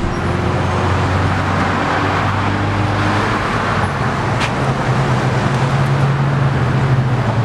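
Road traffic noise with a vehicle engine running close by, a steady low hum that grows stronger about halfway through.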